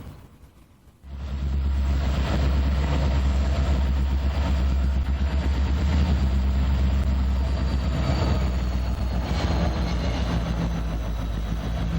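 Canadian National diesel locomotive running with a steady low drone, starting about a second in after a brief near-silent gap.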